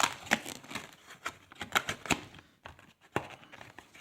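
Trading card packaging being torn open and crinkled by hand: a run of irregular sharp crackles and rips.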